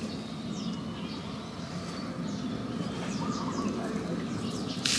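Faint short bird chirps over a steady low outdoor background noise, with one sharp crack right at the end.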